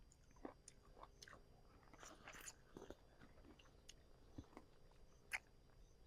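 Near silence with faint, scattered short clicks and crunches, one a little louder about five seconds in.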